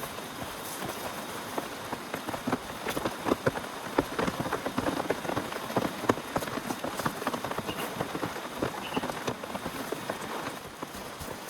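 Heavy rain falling close to the microphone, with dense, irregular sharp taps of big drops striking a hard surface. The taps thin out a little near the end.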